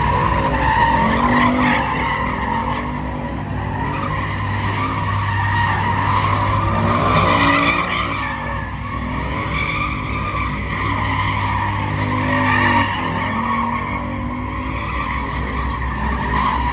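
A car's tyres squealing on and off, wavering, over the engine held at high revs that rise and fall, as the car does burnouts or donuts.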